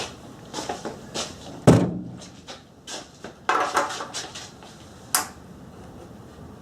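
A series of knocks and clatters from things being handled and set down, the loudest a sharp knock just under two seconds in, then a cluster of rattling clunks and a last click about five seconds in.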